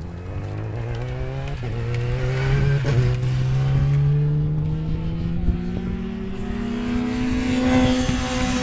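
A track motorcycle's engine running hard, its note climbing steadily in pitch and getting louder, with wind buffeting the microphone.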